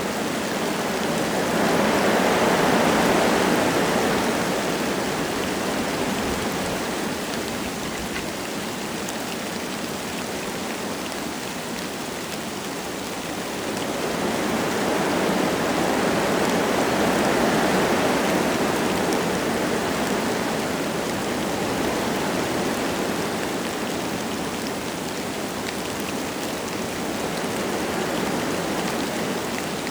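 Wind gusting through forest trees, a rushing noise that swells and dies back, with two strong gusts near the start and about halfway through. Light rain patters underneath.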